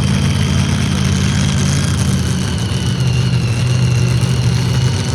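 A pulling tractor's engine running at a steady speed, its pitch shifting down a step about three seconds in, with a steady high whine over it.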